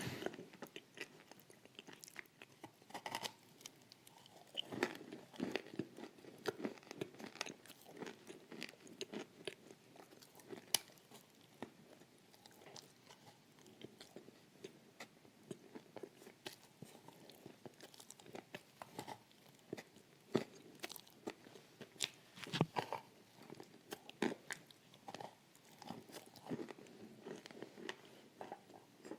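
A person biting and chewing something crunchy close to the microphone: many irregular sharp crunches and crackles, with softer chewing between them.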